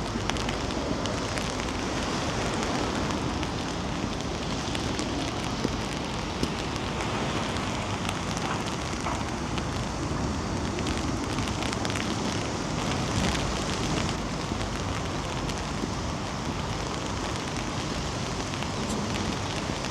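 Steady rain with many small drops ticking close by, over a low rumble of wind on the microphone.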